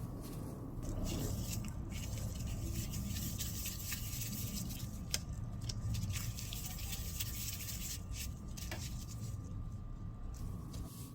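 Soft scraping and squishing of hands and utensils working cookie dough or ganache, with a few light clicks, the sharpest about five seconds in and another near nine seconds, over a faint steady hum.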